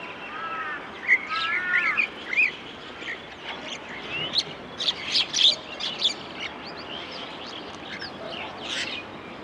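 Several small songbirds chirping and twittering in quick, irregular calls. About half a second to two and a half seconds in, a run of lower, arching calls joins them.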